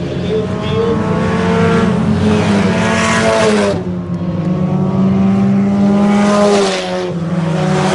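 Several IMCA Sport Compact race cars' four-cylinder engines revving at racing speed, a mix of pitches rising and falling as the pack goes by, loudest twice, around two to three seconds in and again around six seconds in.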